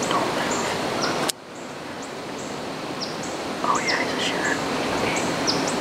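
Rural outdoor ambience: small birds chirping with short, high notes repeating every second or so over a steady hiss. The hiss drops suddenly about a second in, then slowly builds back.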